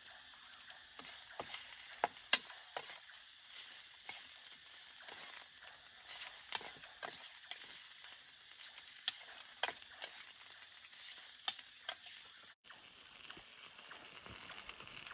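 Food sizzling as it fries in a pan, with a steady hiss and irregular sharp pops and crackles.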